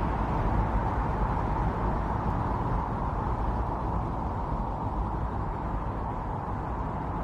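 Strong winter wind blowing steadily in a snowstorm, a dense, even rushing noise.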